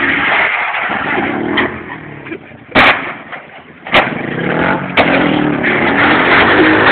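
Honda Dax minibike engine running under throttle, dropping off for a couple of seconds and then revving up again near the end. Three sharp bangs about a second apart cut through the middle.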